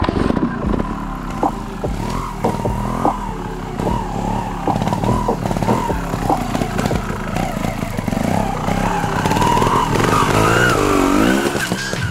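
Scorpa trials motorcycle engine being ridden, revving up and down over and over, with short knocks and clatter from the bike.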